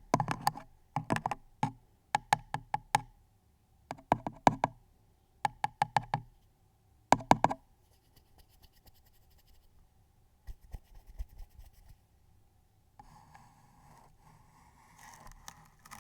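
Quick ASMR taps on a hard object, in short bursts of four to six taps about once a second, stopping after about seven seconds. Quieter fine crackling and scratching follow, growing near the end.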